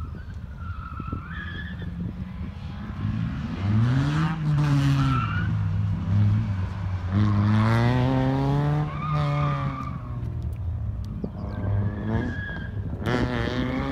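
Ford Sierra 2.0 DOHC's four-cylinder engine revving hard as the car is driven through a cone slalom. The revs climb about three and a half seconds in, fall and climb again around seven seconds, drop back near ten seconds and rise once more near the end. Short tyre squeals come in the turns.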